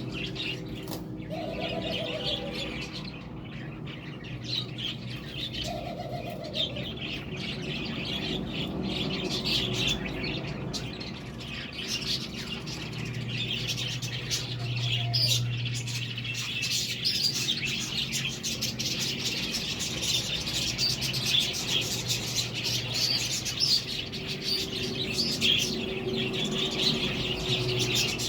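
Budgerigars chattering and warbling, a dense stream of rapid chirps and twitters with no pauses.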